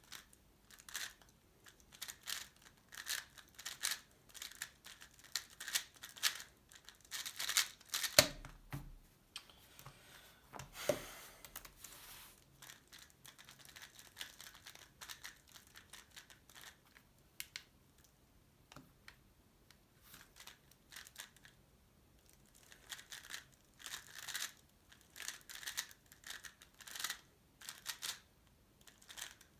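A Tornado V3 Pioneer speedcube being turned fast: rapid, dense clicking and clacking of its layers for about eight seconds, cut off by a sharp thump. Sparser clicks follow, and the fast turning starts again near the end.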